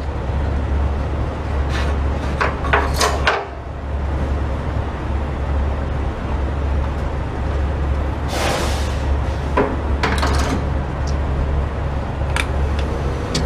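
Clunks and knocks from handling the fuel nozzles and tank caps while fueling a semi truck, over a steady low rumble, with a short hiss about eight seconds in.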